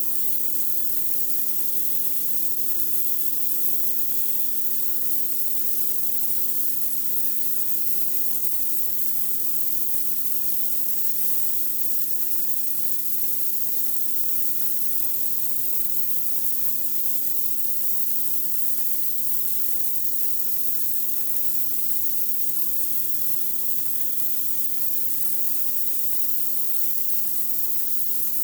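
Pressure washer spraying a high-pressure jet of water onto concrete, a steady hiss with the machine's motor humming evenly underneath.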